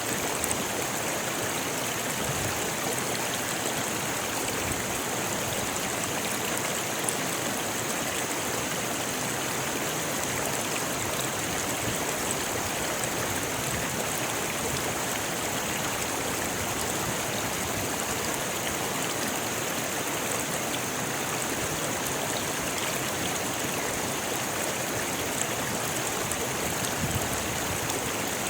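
Rocky river flowing steadily over stones: a continuous, even rush of water with a steady high hiss over it.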